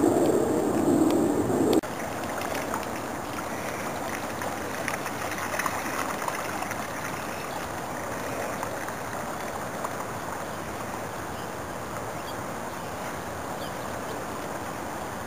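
A louder, rumbling noise that cuts off abruptly about two seconds in, then steady water noise with a few faint ticks.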